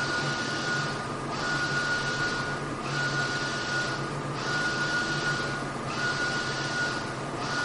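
Mutoh Blizzard wide-format printer printing, its print-head carriage sweeping back and forth across the media in passes of about a second and a half. Each pass carries a steady whine and hiss, broken by a short pause as the carriage reverses.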